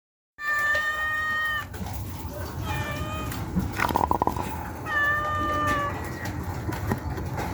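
Domestic cat meowing: three long, drawn-out cries at a steady pitch, with a brief patch of clicking and rustling between the second and third.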